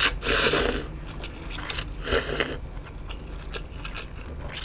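Close-miked eating: two loud bites about two seconds apart, with small chewing clicks between them.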